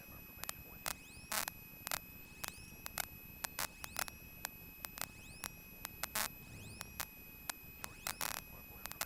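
Faint electrical noise on an aircraft radio/intercom audio line between transmissions: a steady high whine with irregular clicks a few times a second, some trailing a short rising chirp, over a light hiss.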